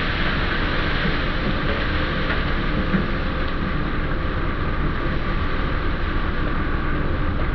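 Heavy drilling machinery running: a loud, steady mechanical noise that holds even, with no break or change.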